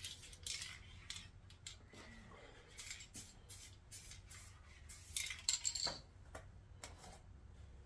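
Scattered light metallic clinks and clicks of small parts or tools being handled, busiest about five seconds in.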